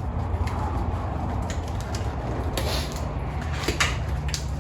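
Small clicks, knocks and rubbing from engine parts being handled while the connecting-rod bearing shells are wiped clean with acetone, over a steady low hum.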